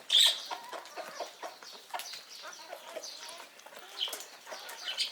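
Chickens clucking, with one loud squawk right at the start and a couple of shorter calls near the end, over scattered light knocks.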